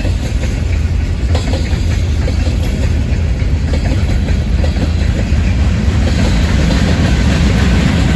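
Freight train rolling past, its steel wheels clicking over rail joints above a steady heavy rumble. The sound grows a little louder toward the end.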